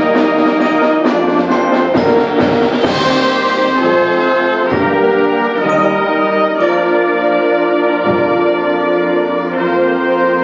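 High school symphonic band playing a concert piece, with the brass to the fore in full sustained chords and a bright crash about three seconds in that rings away.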